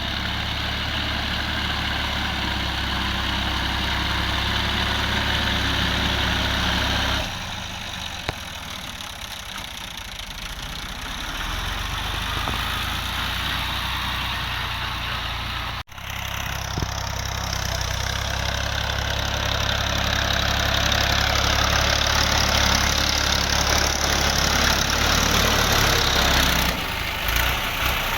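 Fiat 480 tractor's diesel engine running steadily. Its sound drops back about seven seconds in and cuts out for an instant around sixteen seconds before coming back at full level.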